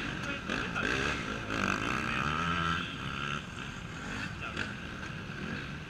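Off-road racing motorcycle engines revving, the pitch rising and falling. Louder in the first half, easing off about three seconds in.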